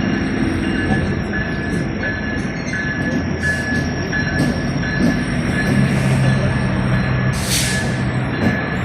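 Train rolling past on the rails with a steady rumble and a thin, high wheel squeal that keeps cutting out and coming back. A short hiss sounds about seven and a half seconds in.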